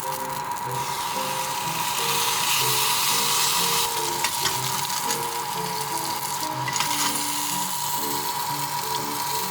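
Food sizzling and frying in a pan, its level shifting and briefly dropping about four seconds in and again near seven seconds, with soft background music underneath.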